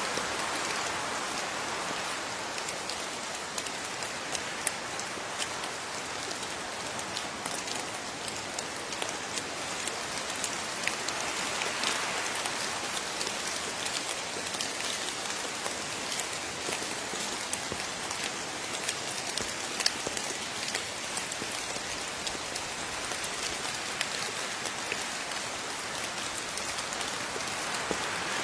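Steady rain falling, with many individual drops ticking sharply on a surface over the even hiss.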